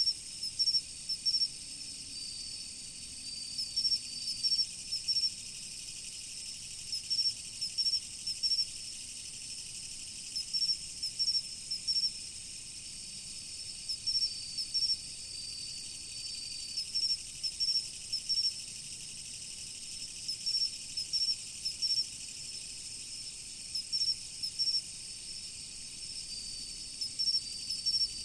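Chorus of autumn crickets: a steady high-pitched ringing from many insects, with one cricket chirping in clusters of three or four about every three seconds and another giving a longer held trill three times.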